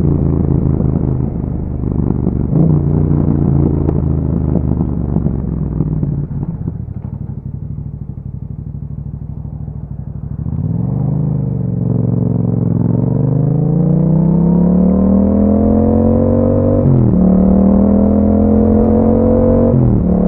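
Yamaha MT-07's parallel-twin engine through an Akrapovic exhaust, running at a steady pace, then falling quiet on a closed throttle for a few seconds. It then pulls hard with rising revs, shifting up twice, near the end and about three seconds before it.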